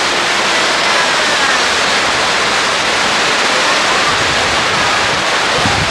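Rapids on the Sydenham River rushing steadily, a loud, even sound of falling water, with a low rumble coming in about four seconds in.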